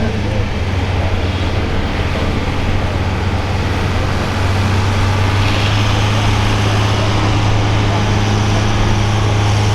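Farm tractor's diesel engine running hard and steady under a pulling load, with a low steady drone; it gets louder about four seconds in.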